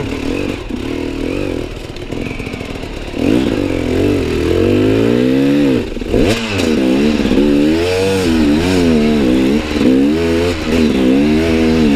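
Enduro motorcycle engine running low for about three seconds, then revved up and down again and again as the bike struggles through wet, muddy ground, coming close to getting stuck.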